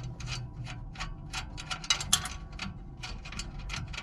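Ratchet wrench clicking in quick, irregular strokes, about five a second, as a nut is backed off a blower motor's mounting bolt, over a low steady hum.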